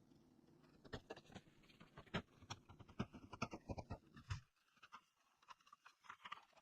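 Faint, scattered light clicks and taps at an irregular pace, bunched in the first part, then a short lull and a few more near the end.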